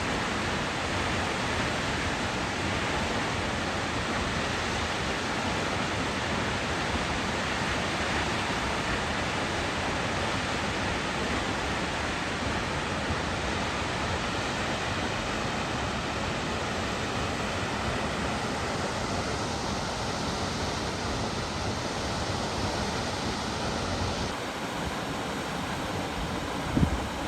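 Steady roar of Salt Creek Falls. Near the end the sound changes abruptly to wind buffeting the microphone, with one brief thump.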